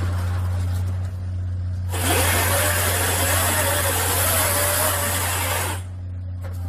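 Machinery running with a steady low drone. About two seconds in, a loud, hissing, whirring noise with a wavering whine joins it and cuts off suddenly near six seconds.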